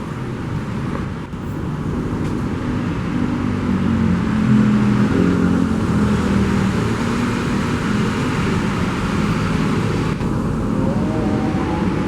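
Steady vehicle noise, growing a little louder about four seconds in.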